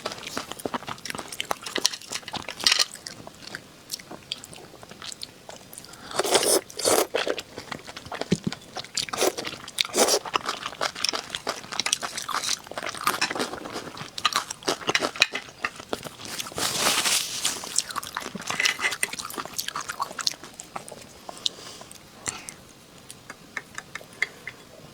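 A person biting and chewing crunchy food, with irregular bursts of crunching and clicks.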